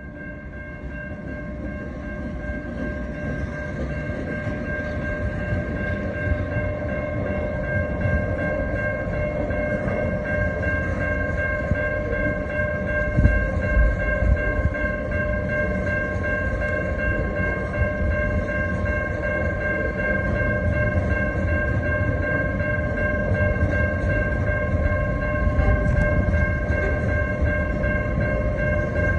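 TasRail diesel freight train, locomotives TR09 and TR13, passing over a level crossing, followed by a long line of container wagons; the low rumble of engines and wheels grows louder over the first several seconds and then holds steady. Several steady high ringing tones sound over it throughout.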